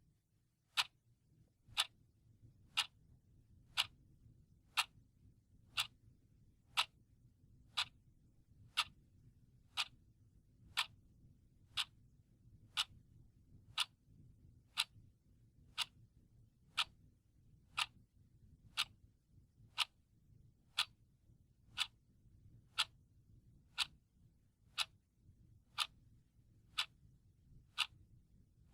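Clock ticking steadily, one sharp tick per second, over a faint low hum.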